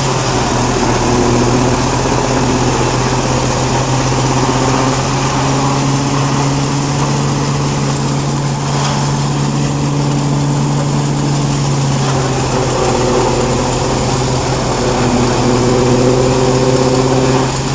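Tractor engine running steadily, driving a three-point-hitch silage harvester, with a loud, even hum. A higher-pitched whine from the running machinery shifts in pitch about twelve seconds in and rises again near the end.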